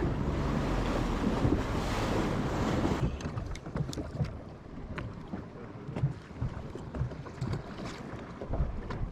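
Motorboat under way at sea: a steady low engine hum under loud rushing wind and water. About three seconds in it cuts to a much quieter scene of water lapping, with scattered small knocks.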